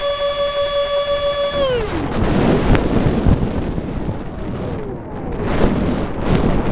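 Electric ducted fan of an RC A-10 jet whining steadily at one pitch, then spooling down quickly about two seconds in as the throttle is cut. Heavy wind buffeting on the microphone takes over after that.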